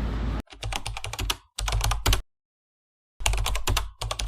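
Rapid computer-keyboard typing clicks in several short bursts, separated by dead silence. Background music cuts off just before the first burst.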